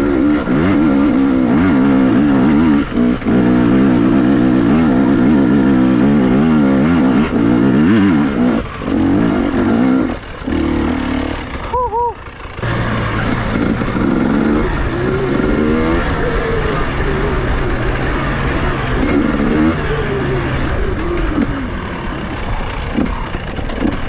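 Two-stroke KTM enduro motorcycle engine revving up and down under varying throttle while riding off-road, with the throttle dropping off briefly a few times about halfway through.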